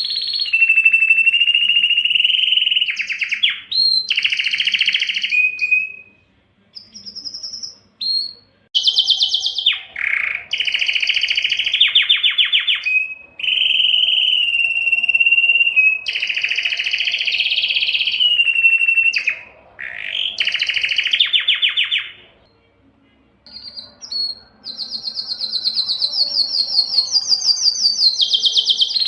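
Domestic canary singing: long phrases of rapidly repeated notes, each run held for a second or more before switching to another, with two short pauses.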